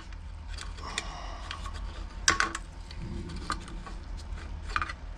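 Light clicks and scrapes of a hand tool working inside a small two-stroke trimmer's plastic fuel tank, fishing for the fuel filter on its line, with one sharper click about two seconds in.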